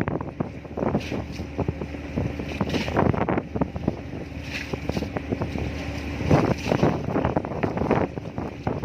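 Wind buffeting the microphone in irregular gusts over the steady low hum of a boat's engine.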